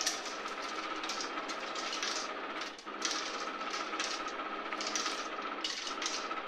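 Treat & Train remote treat dispenser running with a steady motor hum, while kibble clatters in its tray with irregular clicks and rattles.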